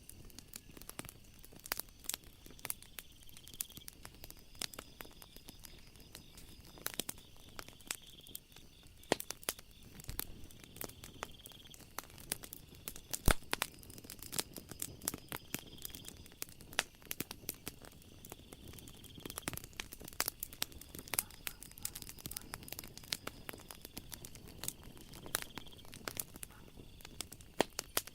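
Wood fire crackling with dense, irregular sharp pops and snaps, one louder pop about midway. A faint high insect trill from the night ambience fades in and out every few seconds.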